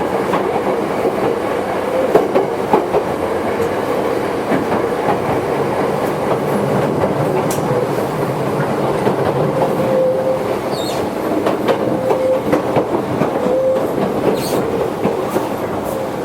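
Toyohashi Railway 1800 series electric train running, heard from inside the car: a steady rumble with the clickety-clack of the wheels over the rail joints. A few short, faint squeals come in the second half.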